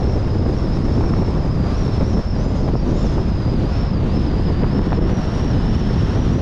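Car driving: a steady low rumble of road and wind noise, with a thin high whine that wavers slightly in pitch.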